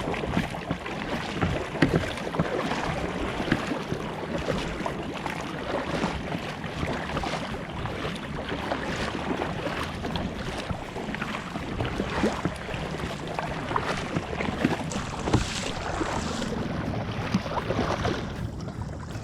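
Sea water splashing and lapping against a fishing kayak's hull in continual, irregular small splashes, with some wind on the microphone.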